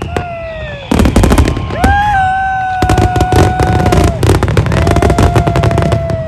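Fireworks display going off in a dense run of rapid crackling pops from about a second in until near the end, with long steady whistling tones sounding over the crackle.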